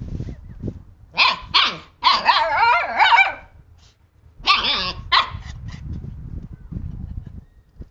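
Siberian husky puppies barking and yipping during play: two sharp yelps about a second in, then a wavering, whining howl-like call, then two more yelps, with low growling and rumbling underneath.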